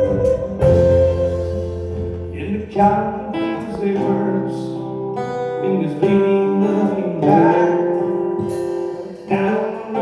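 Acoustic guitar strumming chords, an instrumental intro.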